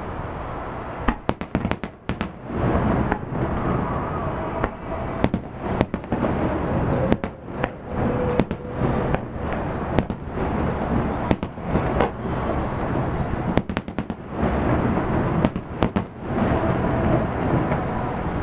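Aerial fireworks display: shells bursting in a quick, irregular string of sharp bangs and cracks over a steady low rumble, with the bangs dying away a couple of seconds before the end.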